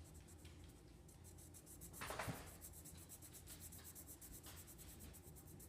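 Pencil faintly scratching on paper while shading in a drawing, with one brief louder sound about two seconds in.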